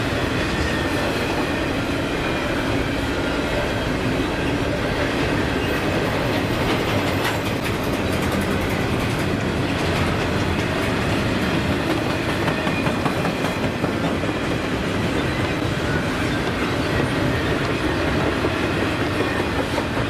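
Double-stack container well cars rolling steadily past: a continuous rumble of steel wheels on rail, with a few sharper clicks about halfway through.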